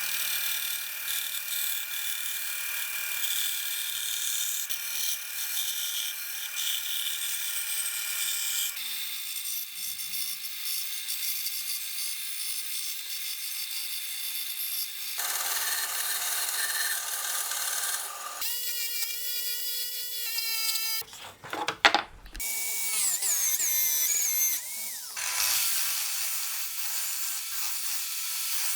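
Power tools working pallet wood in several short cut-together passages of sawing and drilling. Near the middle comes a sharp knock, the loudest moment, and after it a motor whine falls in pitch as the tool winds down.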